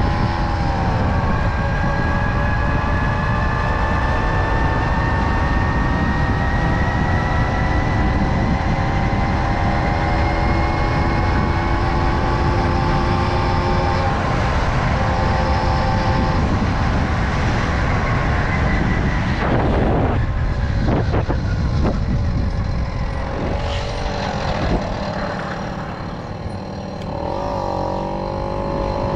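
Tomos Silver Bullet moped's small two-stroke engine running under way, its pitch climbing slowly through the first half. Near the end it eases off and settles to a lower steady note, with wind rumble on the microphone throughout.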